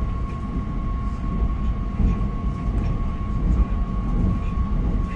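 Electric commuter train running along the track: a steady low rumble with a thin, steady whine above it that fades out right at the end.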